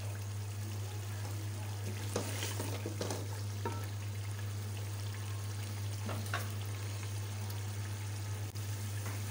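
Chicken pieces frying in masala in an aluminium pot, a steady sizzle with a few scrapes and knocks of a wooden spoon against the pot. A steady low hum runs underneath.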